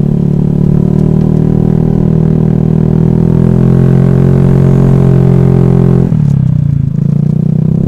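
Honda Vario scooter engine droning at a steady speed while riding; about six seconds in the pitch falls as the throttle eases off, then climbs back near the end.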